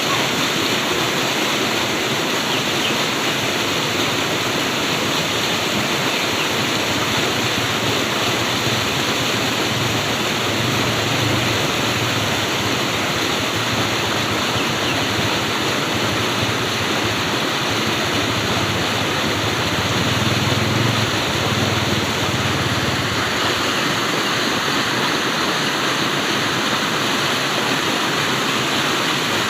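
Flowing water rushing steadily, like a stream or small waterfall, with a deeper low rumble swelling twice.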